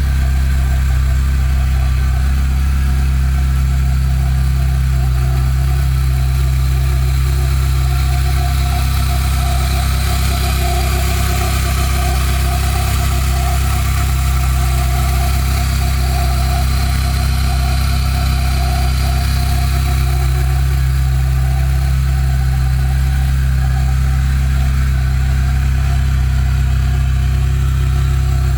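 Volkswagen Pointer's engine idling steadily, recorded because it is making a strange noise. A steady low hum runs under a mid-pitched tone that grows stronger through the middle stretch.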